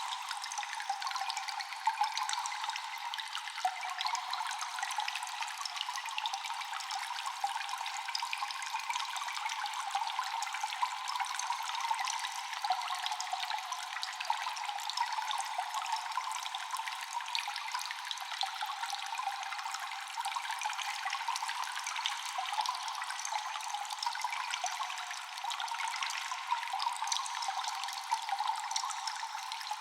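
Water dripping in a cave: many scattered drops with echo over a steady trickling hiss of running water.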